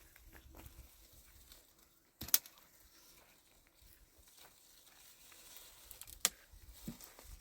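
Quiet background with scattered faint ticks and two sharp knocks, one about two seconds in and one about six seconds in.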